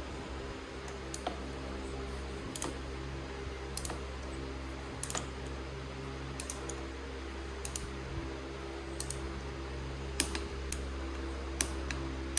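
Scattered light clicks, irregularly spaced about a second apart, over a steady low hum.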